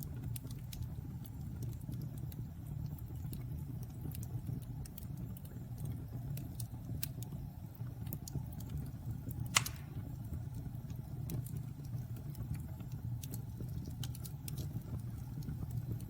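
Wood fire in a fireplace crackling, with scattered small snaps over a steady low rumble and one louder pop about halfway through.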